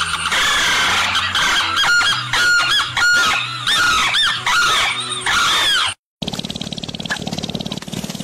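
Small birds chirping in quick, repeated calls that rise and fall in pitch, for about six seconds. Then the sound cuts off abruptly to a moment of silence and gives way to a low steady hum with hiss.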